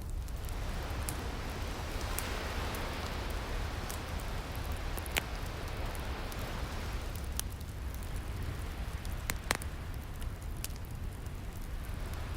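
Wood fire crackling over a soft steady hiss, with scattered small snaps and two louder pops, about five seconds in and near ten seconds in. A wave fades out at the very start.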